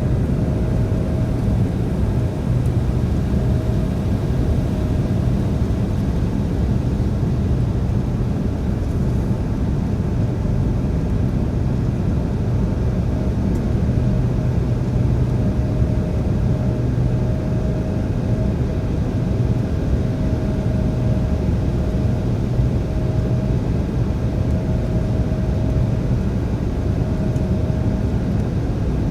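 Embraer 175 regional jet in flight: its two General Electric CF34 turbofans and the airflow make a steady noise with a low hum and a faint steady higher tone.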